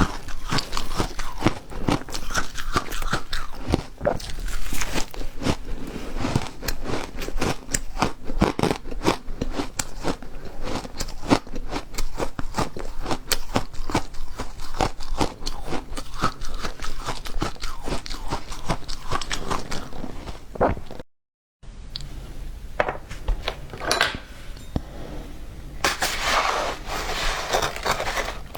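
Refrozen ice being bitten and chewed close to the microphone: dense, irregular crunching and crackling, broken by a brief cut to dead silence about three-quarters of the way through.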